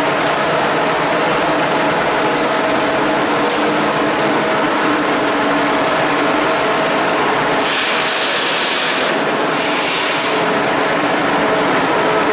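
Steady, loud industrial machinery noise with a constant hum. Two short hissing bursts come near the end.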